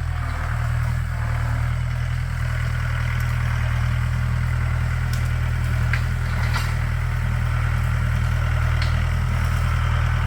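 Tractor engine running at a steady speed, with a few faint clicks over it.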